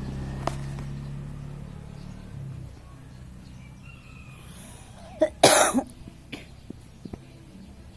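A person coughs once, sharply, about five seconds in. Before it, a low steady hum fades away over the first few seconds.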